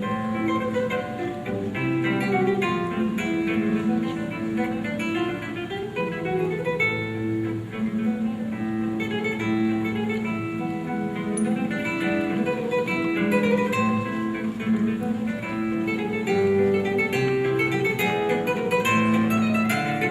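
Solo acoustic guitar playing an instrumental piece, plucked bass notes under a melody.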